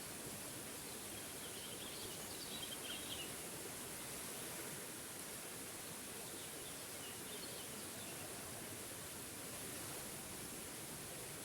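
Small waterfall rushing steadily, with faint bird chirps twice, in the first few seconds and again past the middle.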